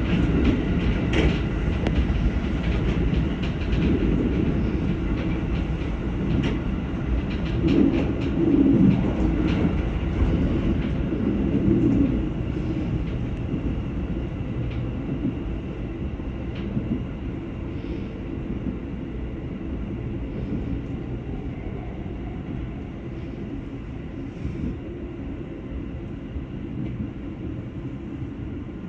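211 series electric train running and slowing, with wheel clicks over the rails early on and a rumble that fades as the train slows for the station.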